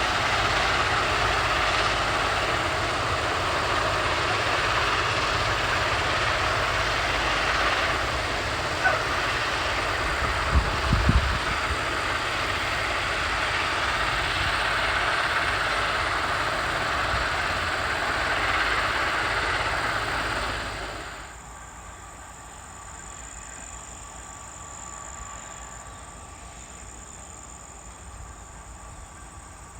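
Heavy rail maintenance machinery, a Norfolk Southern ballast cleaner, running with a loud, steady rumbling roar and a few low thumps, cutting off sharply about 21 seconds in to a much quieter background with a faint high-pitched hum.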